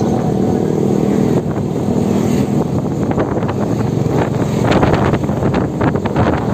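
Wind rushing over the microphone and running noise from a ride on an electric motorbike. A steady hum stops about a second and a half in, and irregular crackles and knocks follow.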